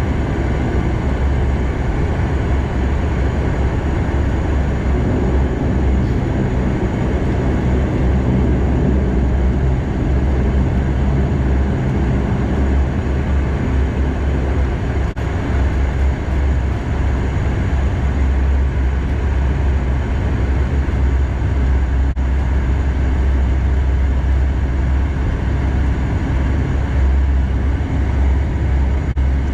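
Bombardier DHC8-Q400's turboprop engines and propellers, a steady low drone heard inside the passenger cabin.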